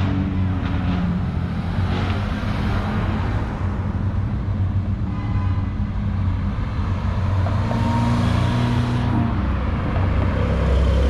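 Car engines running at low revs with traffic noise, a deep exhaust rumble that gets heavier near the end.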